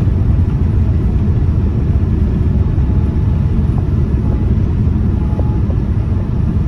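Steady low rumble of engine and airflow noise inside the cabin of a Boeing 787-9 airliner in flight on approach.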